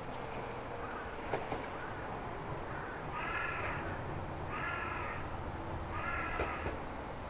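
A bird calls three times in cawing calls, each just under a second long and about a second and a half apart, over a steady low rumble.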